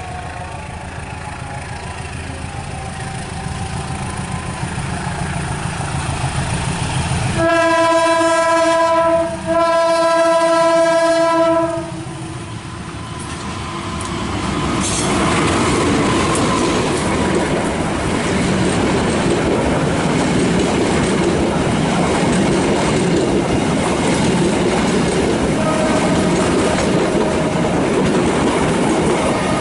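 Train locomotive approaching with a rising low rumble, then two long, steady blasts of its horn. The train then passes close, loud and continuous as the wagons roll by.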